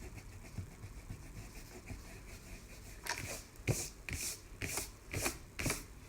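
An eraser rubbing back and forth on paper: faint scraping at first, then about six quick rubbing strokes, roughly two a second, from about halfway through.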